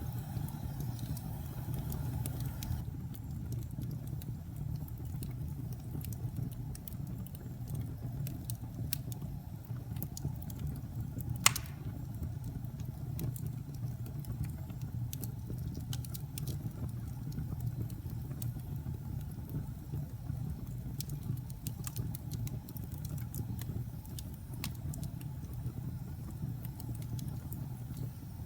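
Fire burning in a fireplace: a steady low rumble of flames with scattered small crackles, and one sharp loud pop about eleven seconds in.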